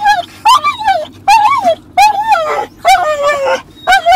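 A dog making a run of about six short, high, wavering whine-like yowls, one every half second or so: the dog's funny "talking" bark.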